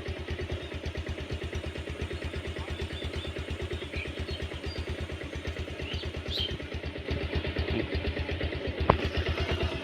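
A small engine running steadily with a fast, even throb. A few faint high chirps sound over it around the middle.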